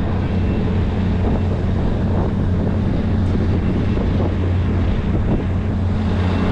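Boat engine running at a steady idle, a continuous low drone, with wind buffeting the microphone.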